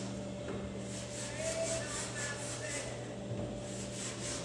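A clay bar being rubbed back and forth over car paint coated in overspray and wax, a gritty rasp at about four strokes a second. The rasp comes from the clay dragging across the contaminated surface.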